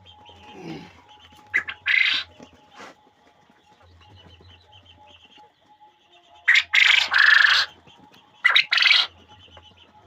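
Farmed quail calling in a few short, loud, scratchy bursts: one pair about two seconds in and more near the end, over faint bird chatter.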